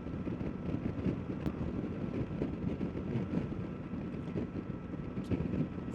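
Steady wind rush and motorcycle running noise picked up by the rider's microphone while cruising on a Suzuki Boulevard C50T, mostly low rumble with a faint steady whine.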